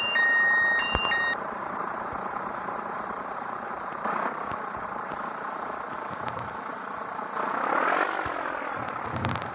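Scania 113 truck on the move, a steady rushing noise with a swell that rises and falls in pitch about eight seconds in. Music fades out in the first second.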